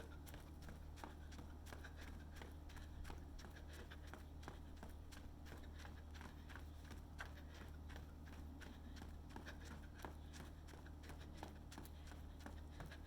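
Faint footsteps of a runner, a quick series of light taps a few times a second, over a steady low hum.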